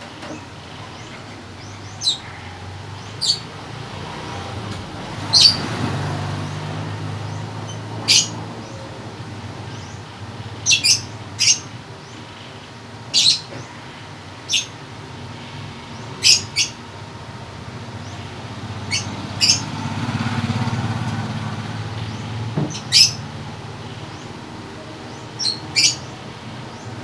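A bird chirping: short, sharp chirps every second or two, some in quick pairs. Under them a low rumble of passing vehicles swells twice.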